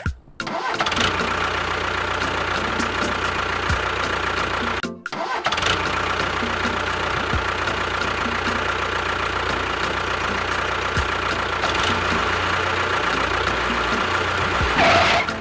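Engine running steadily. It cuts out briefly about five seconds in, starts again, and stops abruptly near the end.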